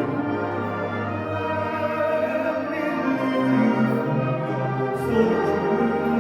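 A live ensemble playing a slow orchestral passage of held chords over a moving bass line.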